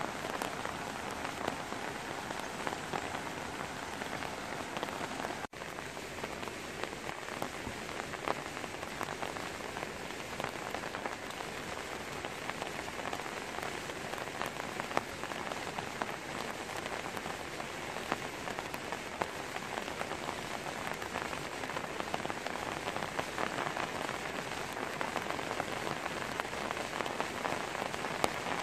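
Steady rain falling on leafy trees, a dense even patter of drops, cutting out for an instant about five seconds in.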